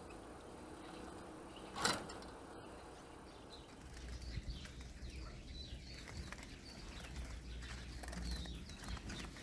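A sharp single click about two seconds in. Then faint, short high chirps and wing flutters of a small finch, likely a female Eurasian siskin, over a low hum.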